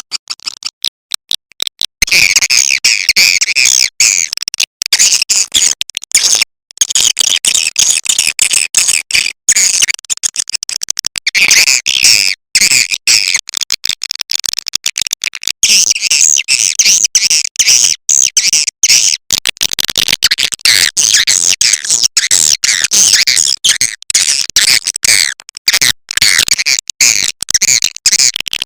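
Swiftlet lure call: a recording of edible-nest swiftlets' rapid, high chattering twitters, made to attract the birds into a nesting house. It opens with about two seconds of fast clicking, then runs as dense bursts of chirps broken by brief gaps.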